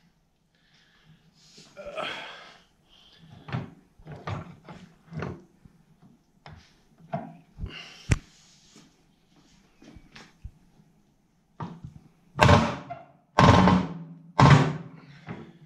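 Metal clanks and thuds from tools being worked against a hydraulic cylinder's guide while trying to turn it loose: scattered knocks, then three heavy ones close together near the end.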